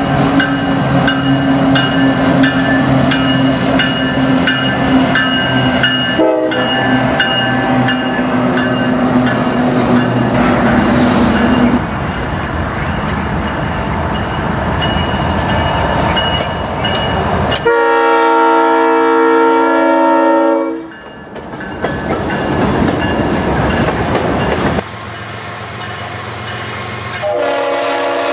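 Diesel freight locomotives with intermodal trains passing: engines running and wheels on the rails. A grade-crossing bell rings steadily at the start. A locomotive air horn sounds one chord for about three seconds past the middle, and another horn blast starts near the end.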